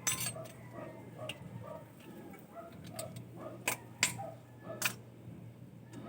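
Soft, regular ticking about two to three times a second over a steady low hum, with a few sharp metallic clicks, one at the start and a cluster about four seconds in.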